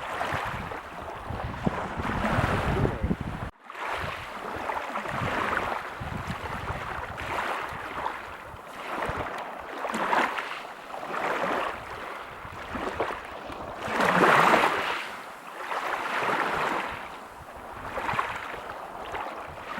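Ocean waves breaking on a beach: a surf hiss that surges and ebbs every couple of seconds, one surge loudest about two-thirds of the way through. The sound drops out for a split second a few seconds in.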